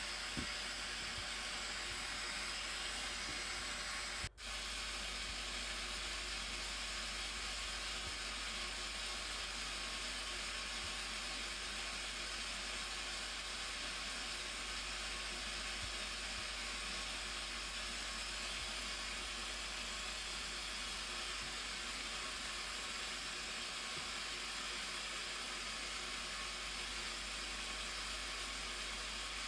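Steady rush of water from the Blue Nile Falls, an even hiss of falling water. It is broken by a brief dropout about four seconds in.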